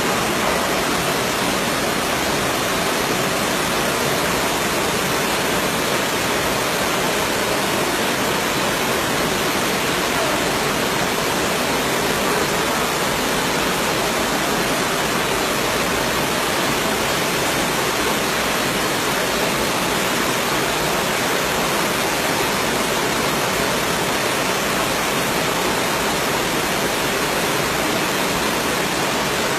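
A steady, unbroken rush of water in a storm flood: heavy rain and running floodwater.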